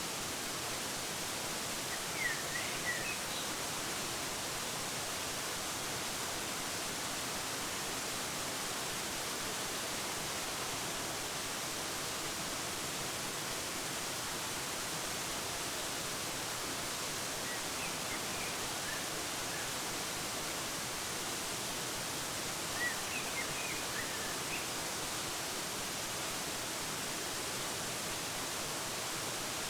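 Steady rushing of a waterfall, with short clusters of bird chirps about two seconds in, around eighteen seconds and again around twenty-three to twenty-four seconds.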